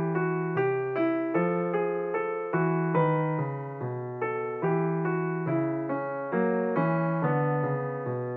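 Background piano music: a slow, even run of single notes, each struck and left to ring.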